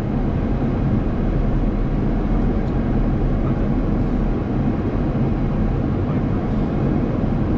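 Steady flight-deck noise of a Boeing 737 MAX 8: an even rush of air and engine sound, strongest in the low end.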